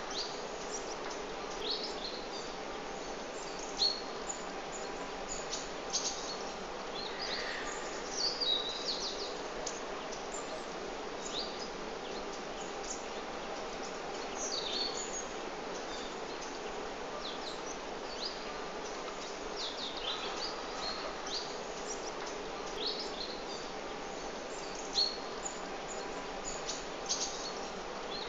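Small songbirds chirping in short, high, scattered calls, a few at a time, over a steady background noise.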